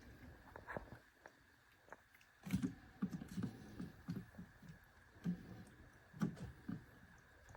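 A string of irregular light knocks and clicks, like objects being handled and set down, mostly in the second half.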